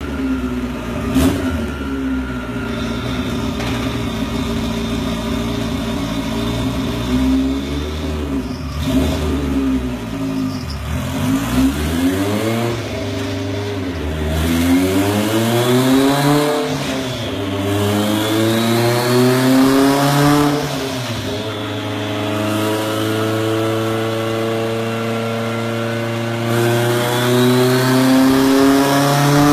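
Turbocharged Honda B18 four-cylinder engine running on a chassis dyno. Its revs hold fairly steady at first and dip about ten seconds in. It then climbs in several rising pulls, each broken by a sudden drop in pitch, and rises again near the end.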